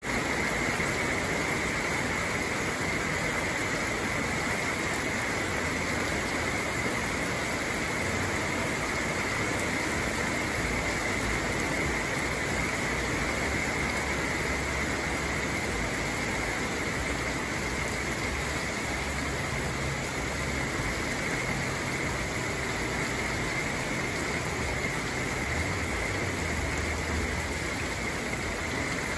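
Heavy rain falling steadily on tree leaves, a continuous even hiss with a steady high-pitched note running underneath.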